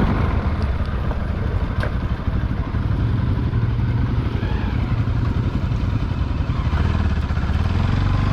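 Motorcycle engine running at low, steady revs while riding a rough dirt track downhill, with a single sharp knock about two seconds in.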